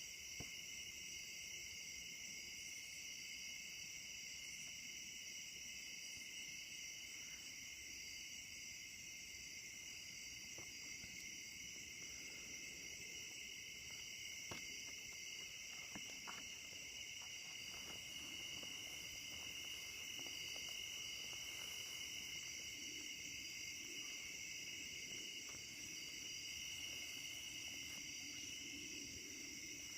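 Night chorus of insects: a steady, high-pitched, continuous trilling from many insects calling at once, layered at two pitches.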